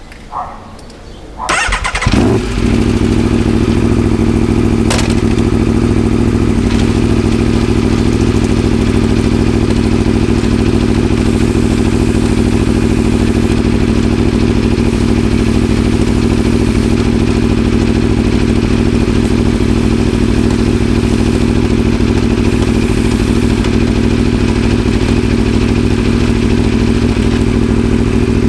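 Aprilia RSV4's V4 engine turned over by its starter and catching about two seconds in, then idling steadily. A sharp click about five seconds in.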